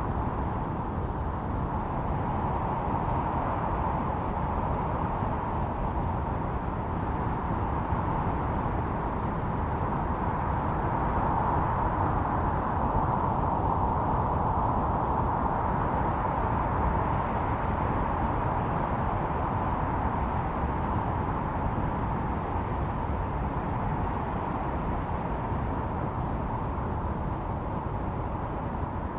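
Snowstorm wind blowing in a steady rush with a howling tone that swells a little midway and eases near the end.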